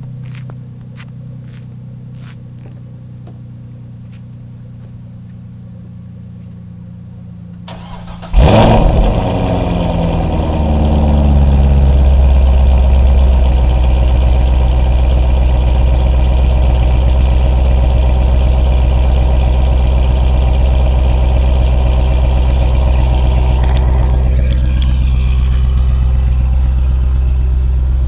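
2004 Corvette Z06's LS6 V8 cold-started: about eight seconds in it cranks briefly and catches with a loud flare of revs, then settles into a steady, fast cold idle. Before the start there is only a steady low hum with a few light clicks.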